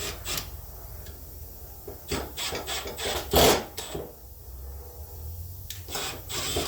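Ceiling fan parts being handled and fitted, with short rubbing and scraping sounds and a sharper knock about three and a half seconds in, then a few more scrapes near the end.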